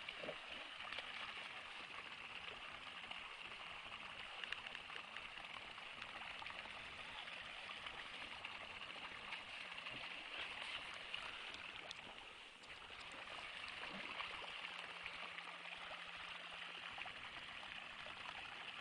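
Steady rush of a flowing stream, with a few faint ticks and crackles over it.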